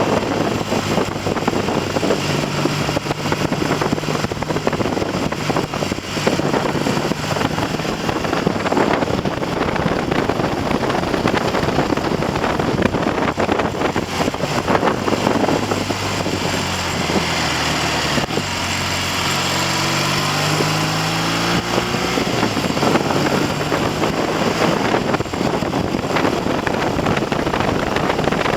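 Triumph TR6 650 cc parallel-twin engine running on the road under light throttle while being run in after a top-end rebuild, largely buried under loud wind buffeting on the microphone. About two-thirds of the way through, the engine note drops and then rises again.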